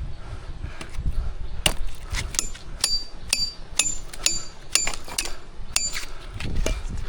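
About ten sharp metallic clinks, roughly two a second, several ringing briefly with a thin high tone, over a low rumble. The clinks start about a second and a half in and stop near the end.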